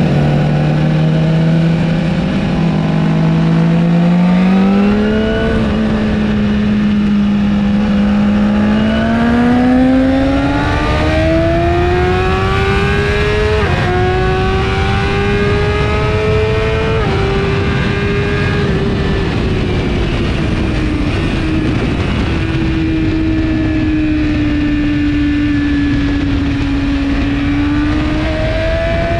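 2017 BMW S1000RR's inline-four engine with an Akrapovic exhaust, heard from on board at speed: the engine note climbs in stages under acceleration, dips briefly near halfway, falls away as the throttle eases about two-thirds through, then rises again at the end. A heavy rush of wind noise runs under it.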